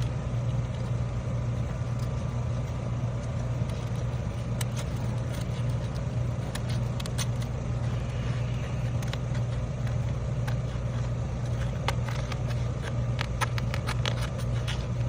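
A steady low engine-like hum runs throughout, with scattered sharp clicks and scrapes of a tool prying under asphalt shingles to get at their fasteners. The clicks come more often near the end.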